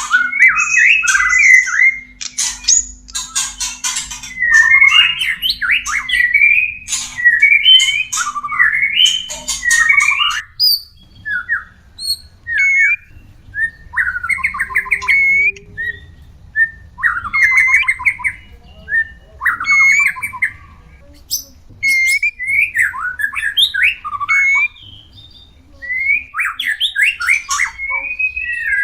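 White-rumped shama (murai batu) mating calls: short phrases of harsh, rapid rattling squawks mixed with whistled notes. The calls come thick for about the first ten seconds, then in separate bouts with short pauses between them.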